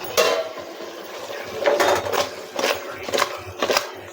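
Metal cooking pot knocked and scraped by a utensil at about two strokes a second while chicken is stirred together with freshly added masala powders.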